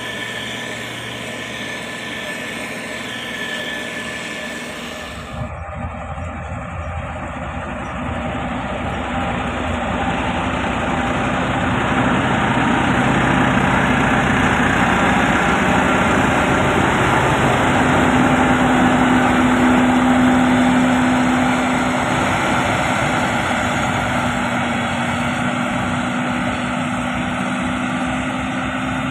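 Diesel engine of heavy road-construction machinery running steadily, the sound changing abruptly about five seconds in and growing louder through the middle, with a steady hum.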